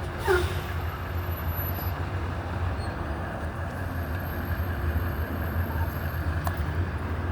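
Steady low rumble of a running vehicle engine at idle with street traffic noise. A brief sound falling in pitch comes about a third of a second in.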